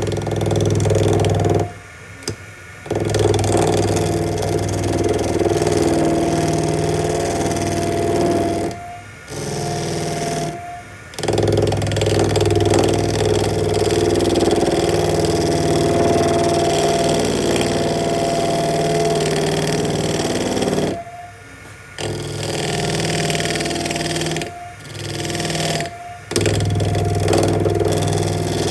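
Electric power tool motor running with a steady whine and low hum, cutting out and starting again several times.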